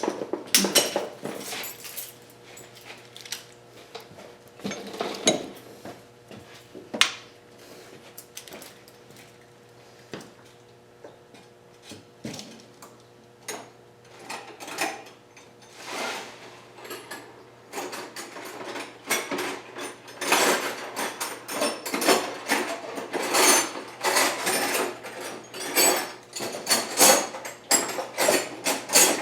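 Steel hand tools clinking and clicking as wrenches work the turbocharger and exhaust manifold nuts loose, with metal-on-metal taps and rattles that come thick and fast in the last third.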